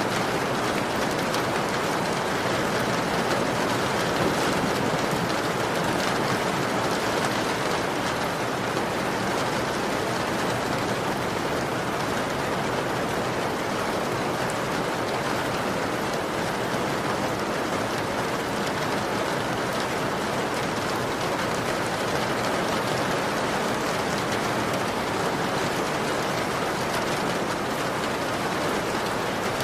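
Heavy rain pelting a window pane in a steady, dense patter.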